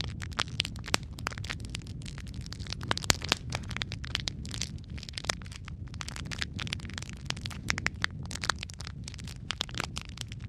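Wood fire crackling in a fireplace: a steady low rumble of flames with frequent irregular sharp pops and snaps, one of the loudest about three seconds in.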